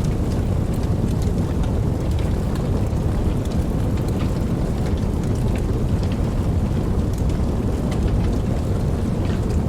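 Steady rain falling, a dense low hiss with scattered light drop ticks.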